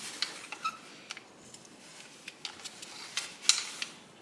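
Irregular light clicks and taps of hand tools and metal parts being handled during engine teardown, with a sharper click about three and a half seconds in.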